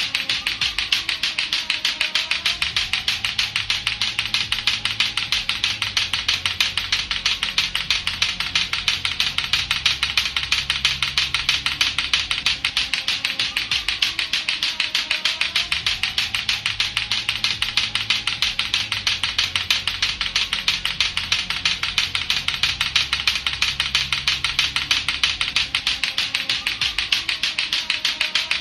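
Latto-latto clacker toy, two hard plastic balls on a string knocked together, clacking rapidly and steadily without a break.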